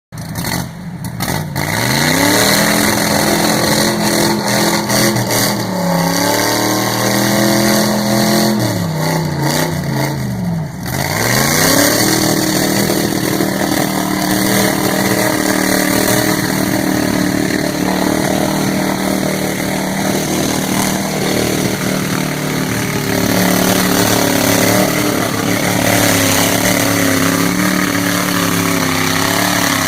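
Mud truck's engine revving hard, its pitch falling and climbing several times, with a sharp drop about ten seconds in before it climbs back and is held at high revs.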